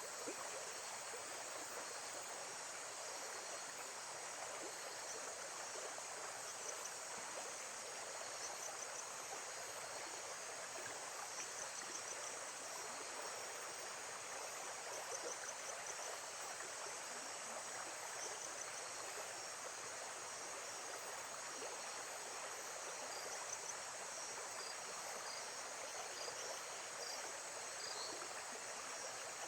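Lake-side nature ambience: a steady rush of water, with short high chirping trills now and then over it.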